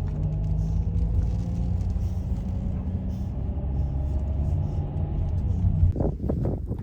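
Small SUV (Ssangyong Tivoli) driving, heard from inside the cabin: a steady low engine and road rumble whose engine tone slowly rises. About six seconds in, a quick run of knocks breaks in.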